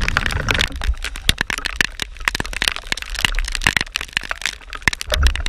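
Raindrops tapping on a GoPro action camera's housing: a dense, irregular crackle of sharp ticks over a low rumble.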